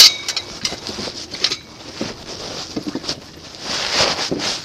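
Rustling with scattered sharp clicks and knocks of things being handled and moved about, loudest at a sharp clank right at the start.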